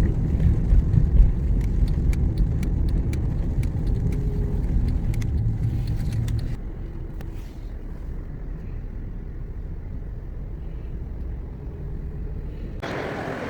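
Car on the move, a low road rumble with scattered light ticks over it. About halfway through the rumble drops suddenly to a quieter, duller hum, and a brighter hiss comes in just before the end.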